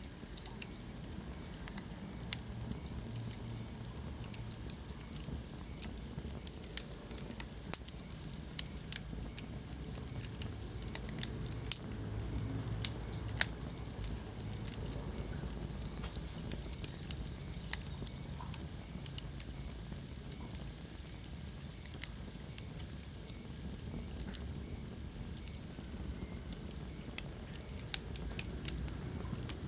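Wood fire burning in a fireplace, crackling with frequent sharp, irregular pops over a low, steady rumble of the flames.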